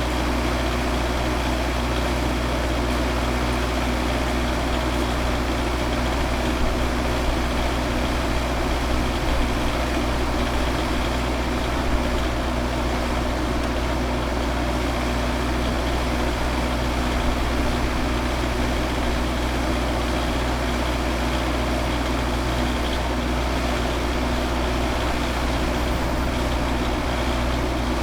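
Van engine idling steadily: a constant low rumble with an even hum.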